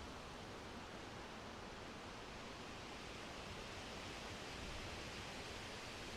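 Winter wind blowing, a steady soft hiss that swells a little past the middle.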